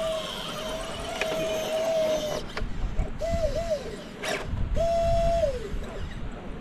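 Electric motor of an RC rock crawler whining at a steady pitch, then in short pulses that rise, hold and fall away as the throttle is worked, with two sharp knocks in between.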